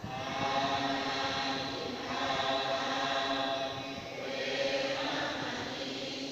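Buddhist chanting by a group of voices in unison, on long held, nearly level tones, with short breaks for breath about every two seconds.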